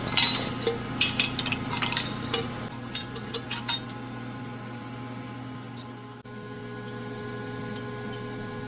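Metal engine parts and tools clinking and tapping as they are handled, a quick run of sharp clicks over the first four seconds, then stopping, over a steady low hum.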